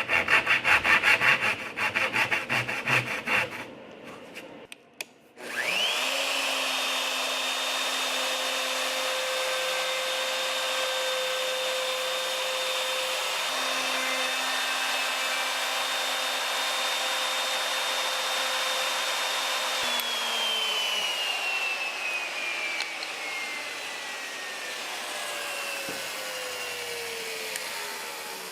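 Rapid back-and-forth strokes of a hand tool on wood for a few seconds. Then an electric motor spins up with a rising whine, runs steadily, and slowly winds down with a falling whine over several seconds.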